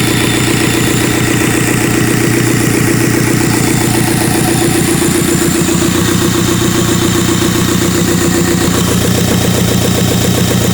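Isuzu 4JX1 four-cylinder turbo diesel engine idling steadily, with an even, fast beat. Its tone shifts slightly about halfway through.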